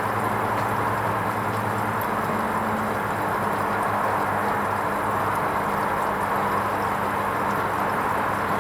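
Hoover Vision HVP16 washing machine running its wool rinse cycle: a steady low hum over an even rushing noise, the hum a little stronger for the first few seconds.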